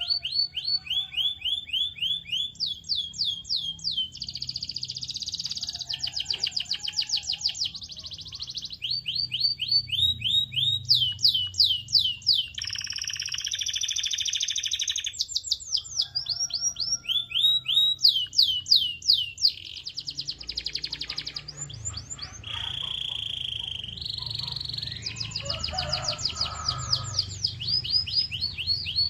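Domestic canary singing: fast trilled rolls of repeated rapid pitch sweeps that switch to a new roll every second or two, with a couple of short held whistled notes about two-thirds of the way through.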